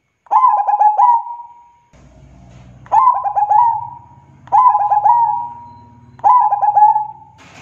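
Zebra dove (perkutut) singing: four phrases of quick stuttering coos, each trailing into a held note, about a second and a half apart.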